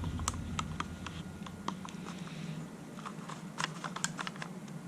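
Scattered light clicks and ticks, irregular and faint, from a fuel line fitting being guided into the tubing in a hand press tool.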